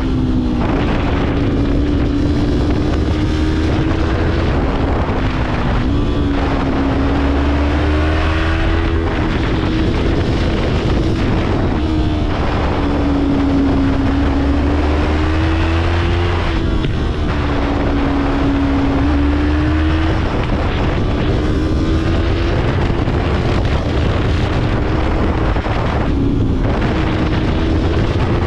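Yamaha YZF-R3's parallel-twin engine running hard, its pitch rising and falling with the throttle and dropping suddenly a few times, over heavy wind noise.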